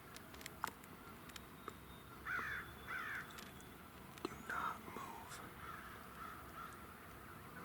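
Crows cawing, a few separate harsh caws, two in quick succession and then two more a second and a half later, with small clicks and ticks in between.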